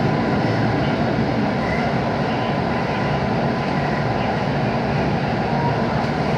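JR 221 series electric train running at restricted speed, heard from inside the carriage: a steady rumble of wheels on rail and running gear, with a faint steady tone.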